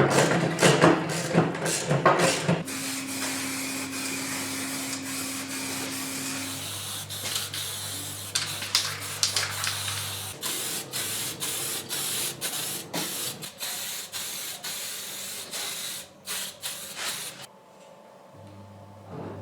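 Paint spraying: a steady hiss that starts about three seconds in, after a few knocks, and runs in spurts with brief stops and restarts, then drops away near the end.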